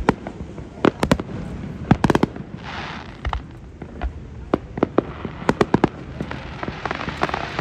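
Fireworks display: aerial shells bursting in quick clusters of sharp booms, with a crackling hiss as some shells burst into sparks.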